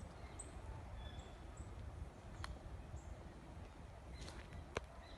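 Small birds chirping: a few brief, high-pitched chirps scattered through, over a steady low rumble. Two sharp clicks, one about halfway and a louder one near the end.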